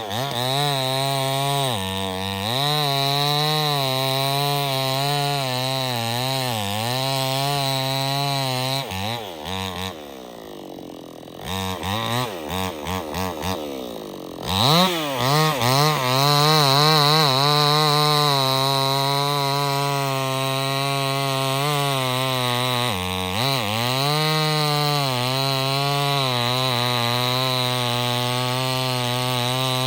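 Stihl 070 chainsaw's two-stroke engine running at high revs, its pitch wavering as it bogs under load in the cut. About ten seconds in it drops toward idle and gets several short throttle blips, then revs back up to full speed and carries on.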